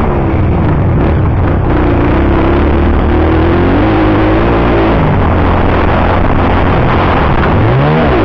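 Motocross bike engine running hard, its pitch rising and falling with the throttle, with a quick rev climbing just before the end.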